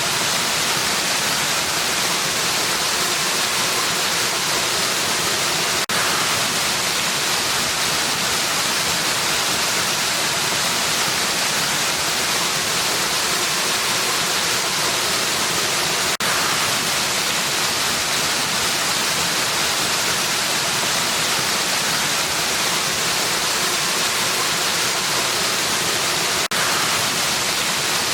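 Waterfall water rushing in a steady, even hiss, brightest in the upper range. Three times, about ten seconds apart, it drops out for an instant with a faint click.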